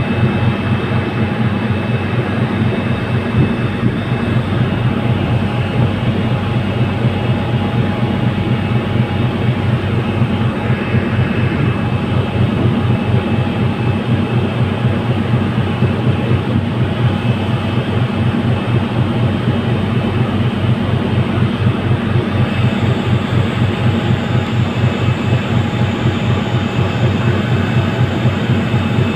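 A ferry's engines running steadily: a loud, even drone with a fast, regular pulse.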